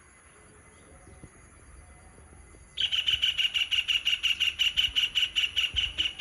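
A bird calling in a fast, even series of short, high, chirping notes, about six or seven a second, starting nearly three seconds in.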